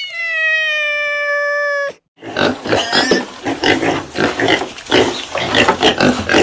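Animal calls. First comes one held, pitched call lasting about two seconds and dropping slightly in pitch, then after a brief gap a dense, noisy jumble of calls.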